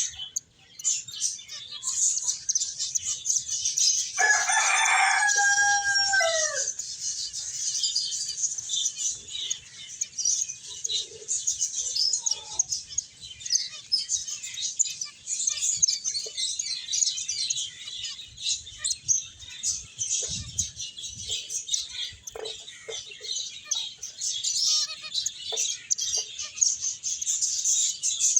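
Small finches chirping and twittering in a continuous high, busy chatter. About four seconds in comes one louder, drawn-out call lasting a couple of seconds, which falls in pitch at its end.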